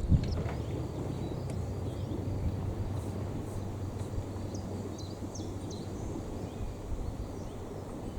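Steady low outdoor ambient rumble, with a few faint, short, high bird chirps about five seconds in.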